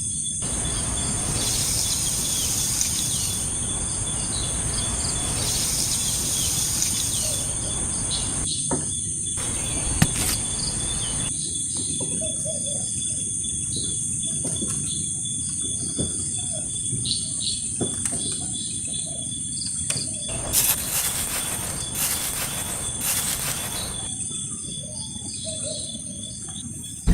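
Outdoor ambience: a steady, high insect drone with scattered bird chirps, over a low rumbling noise that thickens for several seconds near the start and again about two-thirds of the way through.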